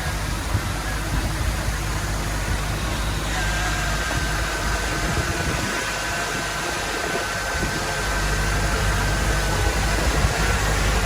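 Diesel engine of heavy earthmoving equipment running steadily with a low rumble, and a thin, steady high whine joining about three seconds in.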